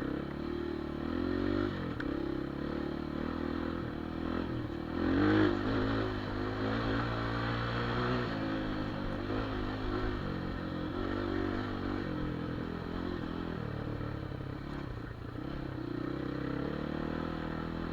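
A Geon Dakar 250 Twincam enduro motorcycle's engine running at low, uneven revs, with a short, louder rev about five seconds in.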